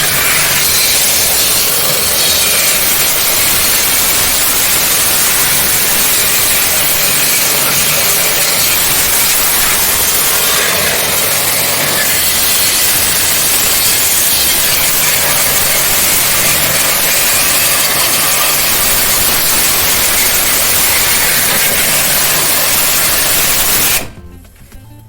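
High-pressure water spray running in a steady loud hiss, with a faint low motor hum underneath; it cuts off suddenly about a second before the end.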